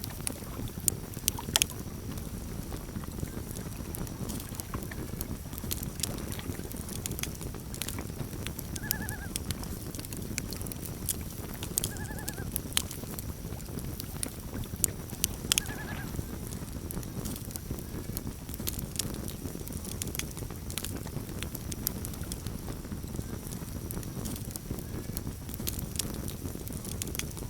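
Campfire crackling, with frequent sharp pops over a steady low rush of flame. A bird gives a short call three times, about three seconds apart, near the middle.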